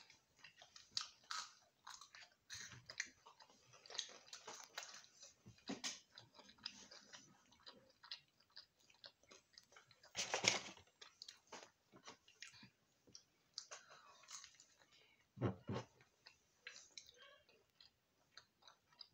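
People chewing and crunching chips and fried chicken close to the microphone, a steady run of small crunches and wet mouth clicks. A louder brief noise comes about halfway, and a low thump about three-quarters of the way through.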